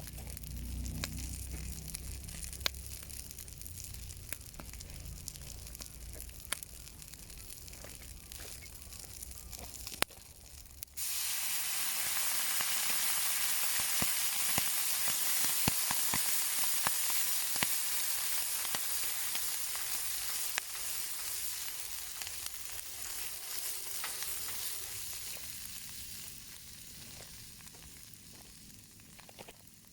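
Wieners sizzling in a heavy iron frying pan over a campfire, with scattered sharp pops. About eleven seconds in the sizzle suddenly becomes much louder and brighter, then dies down over the last few seconds.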